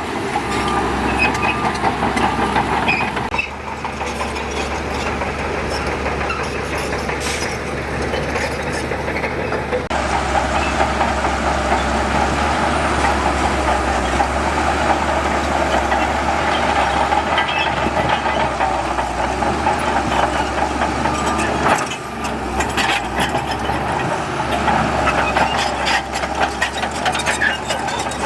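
Diesel engines of heavy earthmoving machinery running steadily under work, with abrupt shifts in the sound a few times and scattered metallic clanks and rattles near the end.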